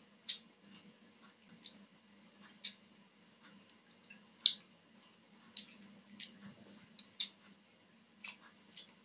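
Close-up eating sounds of a person chewing rice and curry eaten by hand: short, sharp, wet mouth clicks and smacks at irregular intervals, about a dozen, over a faint steady hum.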